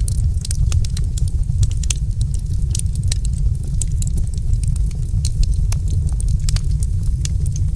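Wood fire crackling in a fireplace: many sharp, irregular pops and snaps, several a second, over a steady low rumble of the flames.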